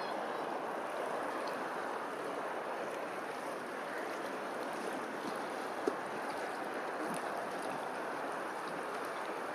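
Steady rush of flowing water, with a single sharp tick about six seconds in.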